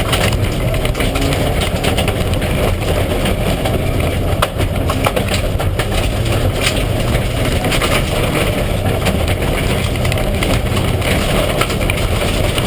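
Mitsubishi Lancer Evolution IX rally car's turbocharged four-cylinder engine running steadily at low revs, with no revving, and frequent sharp clicks and rattles over the hum.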